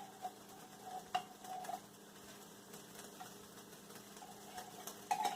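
A utensil quietly scraping and stirring thick condensed cheese soup in a pan, with a light knock about a second in and a few clicks near the end.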